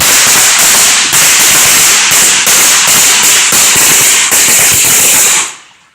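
A consumer firework going off close by: a loud, dense crackling rush of rapid pops. It starts suddenly and keeps going for about five and a half seconds before dying away.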